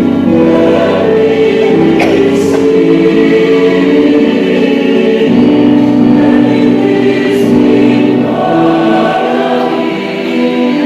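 A choir singing a slow hymn in several parts, holding sustained chords that change every second or so.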